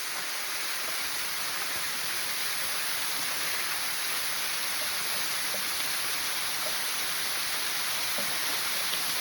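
Steady rushing of a tall waterfall: an even, hiss-like roar of falling water with no breaks.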